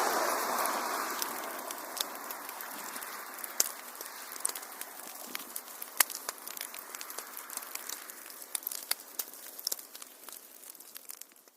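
Wood fire crackling: scattered sharp pops and snaps over a soft hiss. The hiss starts loudest and slowly fades, then dies out near the end.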